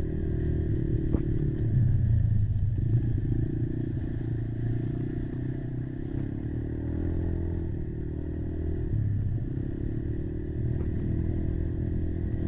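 Kymco Maxxer 300 quad's engine running while riding, its pitch shifting as the throttle changes, with a few knocks and rattles.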